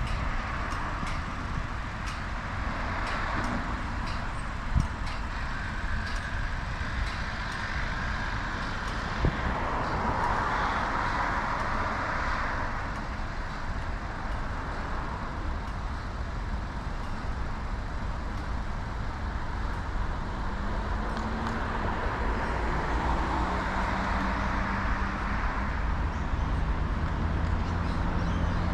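Road traffic passing close by during a bicycle ride, over a constant low rumble. Vehicles swell past several times, and a heavier vehicle's steady engine hum comes in over the last several seconds.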